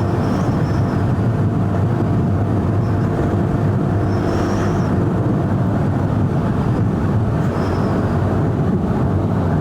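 KTM 390 Duke's single-cylinder engine running at a steady cruise, its pitch holding level, under a heavy rush of wind noise.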